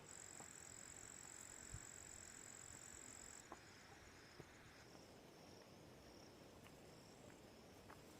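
Faint night insects: a steady high trill that stops about three and a half seconds in, over a softer pulsing chirp that keeps going throughout.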